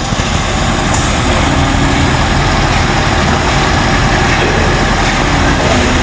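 Heavy diesel machinery engine running steadily and loud, with a low engine hum.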